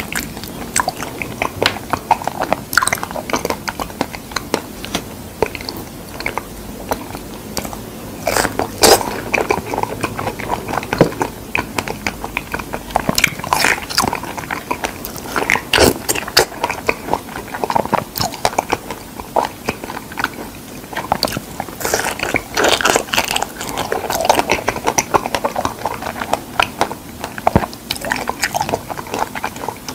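Close-miked biting and chewing of whole fresh figs: a steady run of short mouth clicks, with louder clusters now and then.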